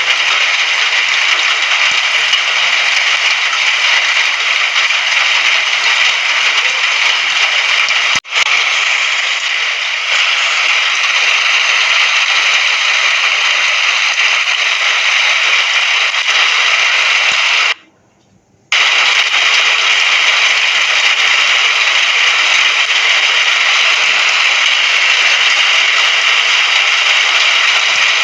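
Steady rain falling, an even hiss. It dips briefly about a third of the way in and cuts out completely for about a second past the middle before resuming.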